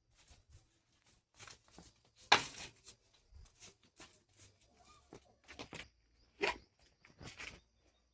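A calf moving about: irregular knocks and scuffs, the loudest about two and a half seconds in and another near six and a half seconds.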